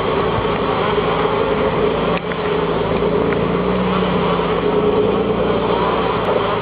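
Valtra T131h forestry tractor's diesel engine running steadily under load, with a steady whine over the engine note. There is a brief dropout about two seconds in.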